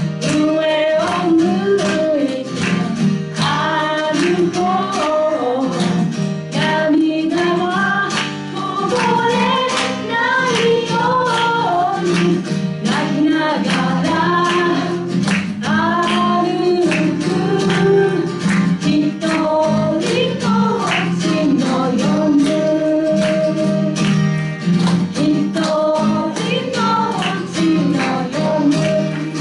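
A woman singing a song to a steady instrumental accompaniment with plucked string sounds.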